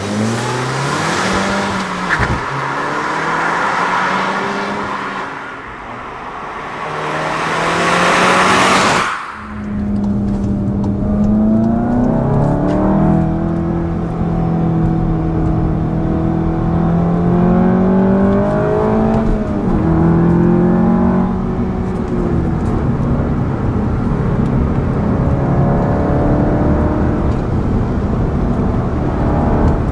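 SEAT Leon Cupra ST 280's turbocharged 2.0-litre four-cylinder: first heard from outside as the car pulls away through a bend, with a loud rush building until a sudden cut just before ten seconds in. Then it is heard from inside the cabin, accelerating hard, its engine note climbing and dropping back at each upshift.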